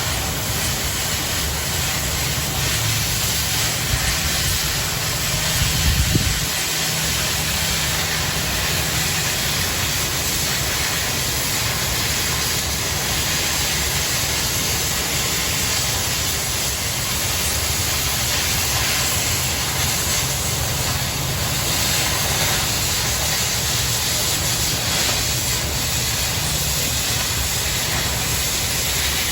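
Oxy-fuel cutting torch hissing steadily as its cutting-oxygen jet cuts through quarter-inch steel plate, with a brief louder flare about six seconds in.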